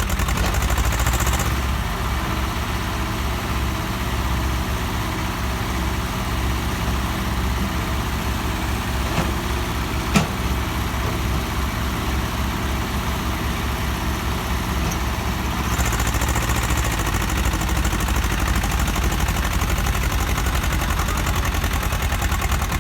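Swaraj tractor's diesel engine running steadily with an even, rapid low beat, and one sharp click about ten seconds in.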